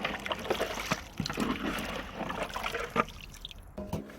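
Bone broth sloshing and trickling in a large pot as fat is skimmed off with a ladle, with a few light knocks.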